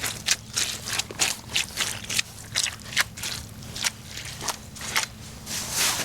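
Footsteps crunching over dry twigs and forest litter, about two steps a second.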